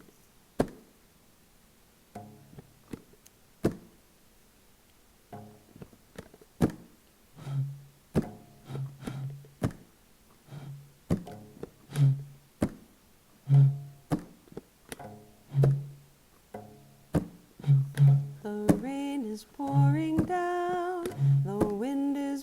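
An instrumental song intro played on homemade instruments made from household items: sharp clicks and knocks, short plucked tones and, from about a third of the way in, low drum-like thumps on a steady beat. A wordless hummed melody with vibrato comes in near the end.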